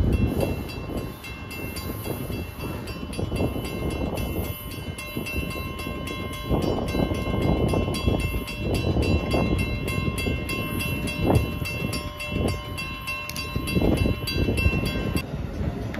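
A train rolling along the tracks: its wheels knock irregularly over rail joints over a low rumble. A thin, steady, high whine sits above and cuts off suddenly shortly before the end.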